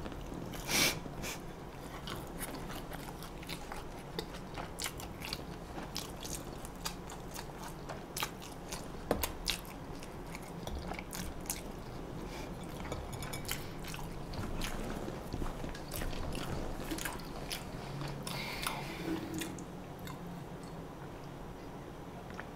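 A person chewing and biting food close to the microphone, with many irregular small crunches and wet mouth clicks.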